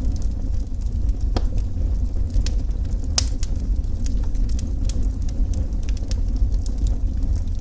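Wood fire crackling in a fireplace, with irregular sharp pops over a steady low rumble; the loudest pop comes about three seconds in.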